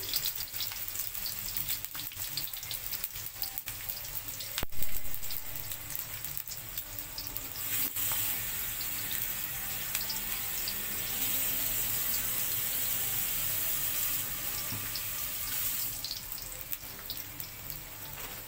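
Sliced garlic and shallots frying in hot cooking oil: a continuous sizzle with scattered crackles. A single sharp knock comes about five seconds in.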